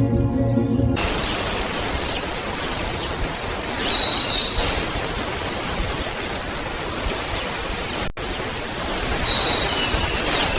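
Nature ambience: a steady, even hiss that sounds like rain, with short high bird chirps about four seconds in and again near the end. The tail of soft background music is heard in the first second.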